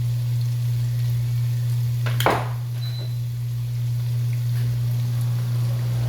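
Funnel-cake batter frying in a pan with a faint sizzle under a steady low hum. A single sharp knock about two seconds in.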